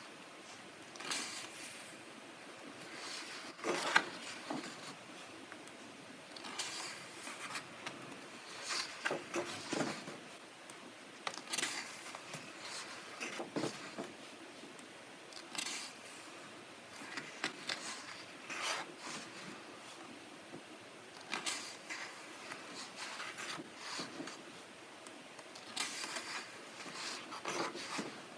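Pages of a coloring book being turned one after another, each turn a brief papery swish and rustle, every couple of seconds.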